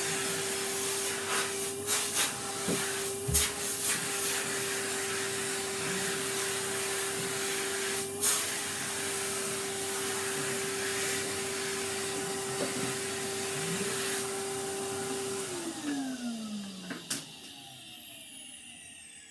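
Vacuum cleaner running steadily, with a few sharp knocks from the nozzle against the wooden table, then switched off about fifteen seconds in, its motor winding down with a falling whine.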